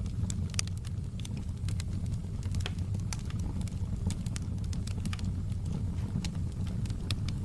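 Wood fire burning in a fireplace: a steady low rumble with frequent irregular crackles and pops of burning wood.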